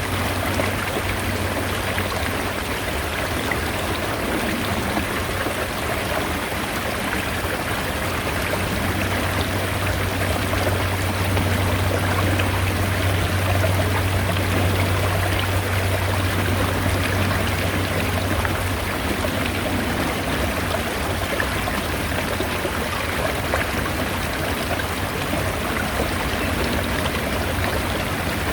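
Mountain stream flowing, a steady rush of water. A low steady hum underneath fades out about two-thirds of the way through.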